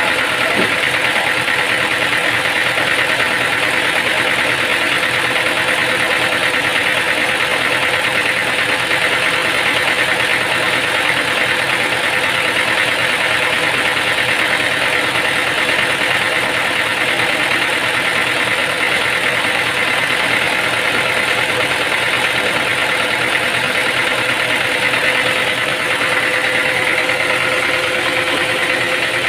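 Machinery running steadily at constant speed, a loud even mechanical noise with a steady hum and whine, with no cutting or load changes.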